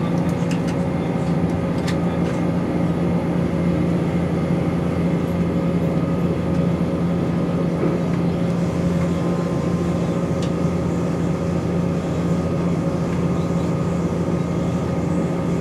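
Class 170 Turbostar diesel multiple unit heard from inside while running: a steady whine of several held tones over the diesel engine's drone and running noise. A few light clicks come in the first two seconds. The uploader is unsure what causes the whine.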